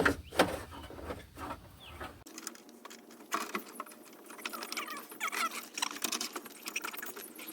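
Hands working a car door's window glass and regulator clips: a few sharp clicks, then a run of small clicks, rattles and short squeaks as the glass is moved in the door.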